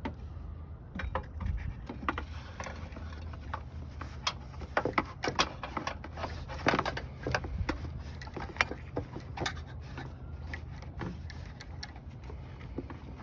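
Socket wrench being worked on the car battery's fittings: irregular sharp metallic clicks of the ratchet and of the tool against metal, over a steady low hum.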